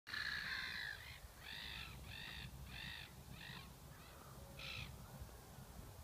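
A bird giving a run of harsh, croaking calls: one longer call, then short calls about half a second apart, and a last one near the end.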